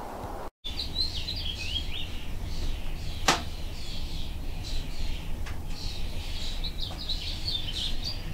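Small birds chirping and singing, many short high notes one after another, over a steady low rumble. A single sharp click sounds about three seconds in.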